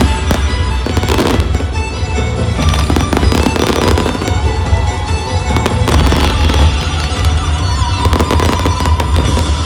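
Fireworks bursting and crackling in rapid succession, with music playing underneath.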